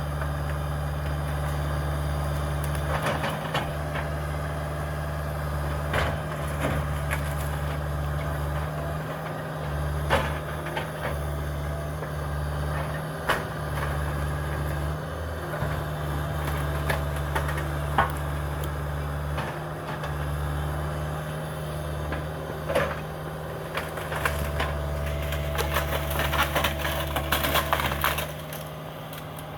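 Cat 305 mini excavator's diesel engine running steadily under work, with scattered sharp knocks and clatter of demolition debris being worked, and a denser run of crackling clatter near the end.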